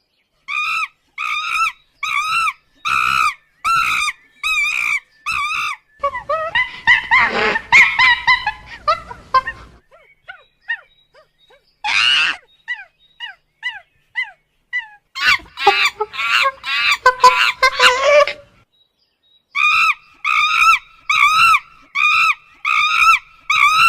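A young animal's repeated shrill cries, one to two a second in runs, with a stretch of overlapping squealing in the middle and a few short falling chirps.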